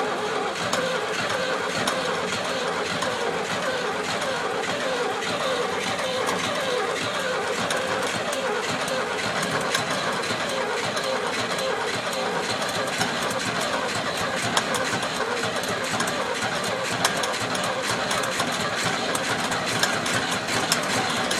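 Oliver Cletrac AG-6 crawler tractor engine running close up just after a cold start, its first run in 15 years; the engine speed wavers unevenly for the first half and then settles into a steadier idle.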